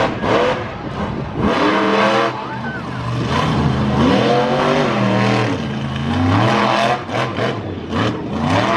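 Monster truck engine revving hard, its pitch rising and falling several times over a steady low rumble.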